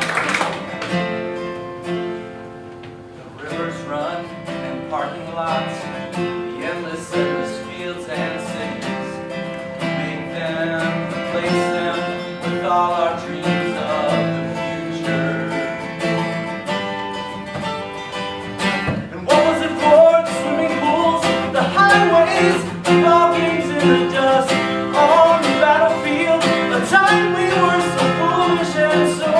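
Live band music led by a strummed acoustic guitar, getting louder about nineteen seconds in.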